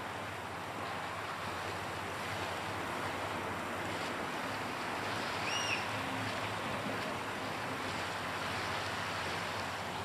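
Waves washing steadily on a rocky shoreline. About halfway through comes a single short, high whistled bird call.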